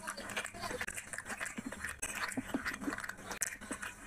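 Mouth sounds of a person eating chicken curry with rice: wet chewing and lip-smacking in an irregular run of short clicks.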